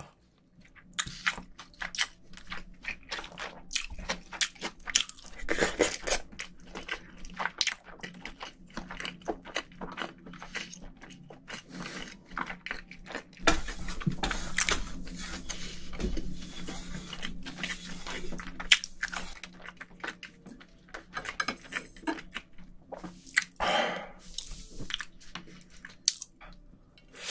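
Close-miked eating sounds: chewing and crunching on cold noodles, with sharp clicks of chopsticks against a stainless steel bowl as the noodles are stirred in their broth.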